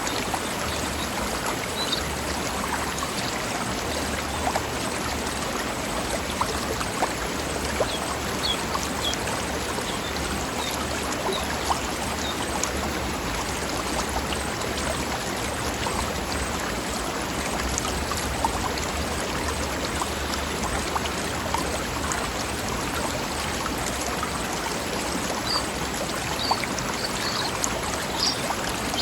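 A forest stream running over rocks: steady rushing and babbling water with small splashes. A few short, high bird chirps come near the end.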